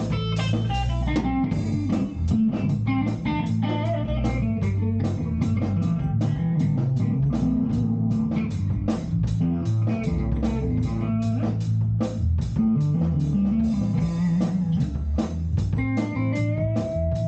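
A band playing an instrumental passage: guitar lines over bass guitar and a drum kit keeping a steady beat, with a held guitar note near the end.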